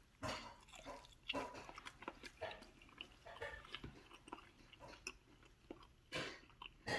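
A person chewing a mouthful of roasted chicken close to the microphone, in irregular bites and chews.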